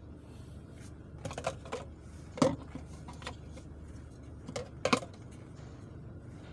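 Keys or buttons being pressed on a computer used to clear a car's stored trouble code: a few sharp clicks in small clusters, about a second apart, over a low steady hum.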